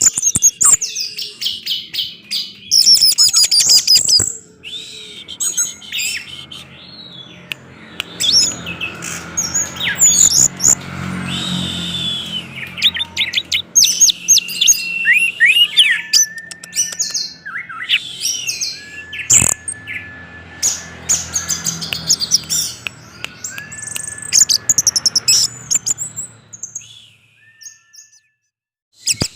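Orange-headed thrush singing a fast, varied song of whistles, chirps and trills, with a low steady hum under much of it. The song stops briefly near the end, then starts again.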